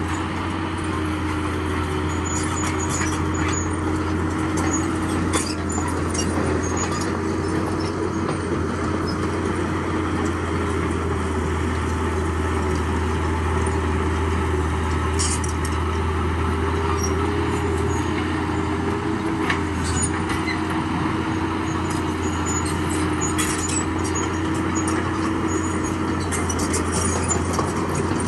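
Diesel engine of heavy earthmoving equipment running steadily under load, a low drone with a held mid-pitched hum, and scattered sharp clanks every few seconds.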